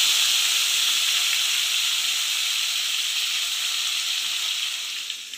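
Freshly added coriander leaves and shallots sizzling in hot oil in a kadai: a steady hiss that slowly dies down.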